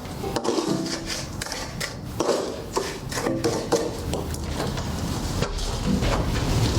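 Irregular scraping and knocking of a hand tool on mortar and stone: pointing mortar being pressed and worked into the joints of a stone wall.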